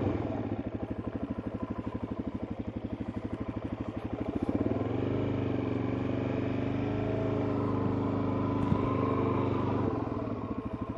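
Suzuki DR-Z400S single-cylinder four-stroke engine running at low revs with a fast, even pulse as the bike is ridden slowly. The revs rise about halfway through, hold, then drop back near the end.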